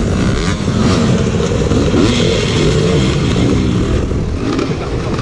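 A dirt bike's engine revving up and down as the rider works the throttle over off-road terrain.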